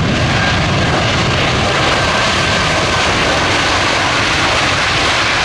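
Jet engines of an arriving Airbus A319 airliner: a loud, steady rushing roar as it lands and rolls out.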